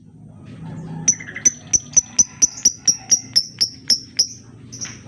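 Lovebird calling: a run of about fourteen short, sharp, high chirps at roughly four a second. The run starts about a second in and slows near the end.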